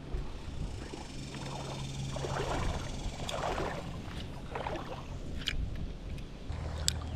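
Water sloshing and splashing over a steady low hum, the hum dropping in pitch about six and a half seconds in.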